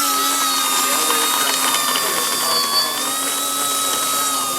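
Electric brushless motor and propeller of an FMS Cessna 182 RC model plane running at steady throttle, a loud whine that holds a nearly constant pitch.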